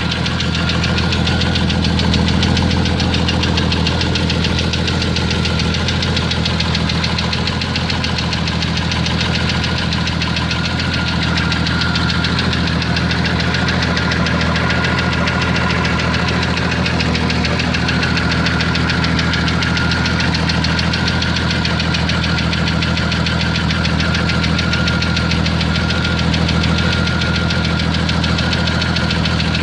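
1992 Jeep Cherokee XJ's 4.0-litre straight-six running steadily at constant speed with a rapid, even knock, which the owner takes for either a loose flexplate bolt or piston slap.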